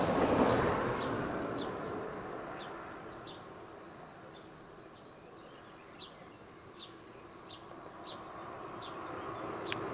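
A small bird chirping in short, high notes, scattered irregularly, over a rushing noise that swells near the start and fades over the next few seconds.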